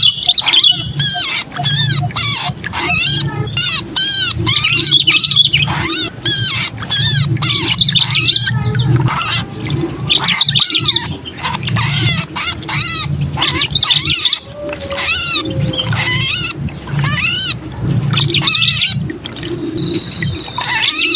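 Sooty-headed bulbul (kutilang) distress calls: harsh, rapid chattering runs of arched notes in repeated bursts, the 'kejepit' call of a bulbul caught and struggling, used as a lure to draw other bulbuls down. A steady low hum lies underneath.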